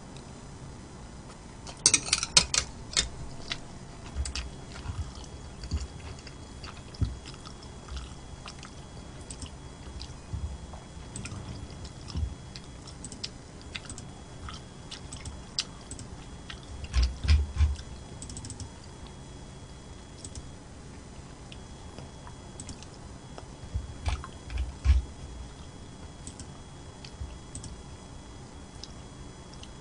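Close-miked chewing and eating sounds, with many scattered small clicks and a few louder bursts about two seconds in, around seventeen seconds and around twenty-five seconds.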